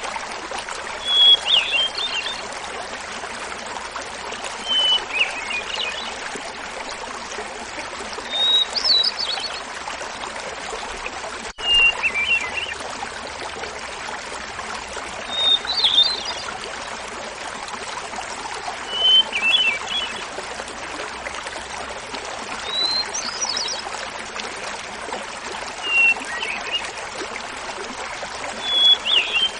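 Hermit thrush singing: a flute-like phrase about every three to four seconds, each opening with a held note followed by a quick run of higher notes, pitched differently each time. Under it the small mountain waterfall babbles steadily.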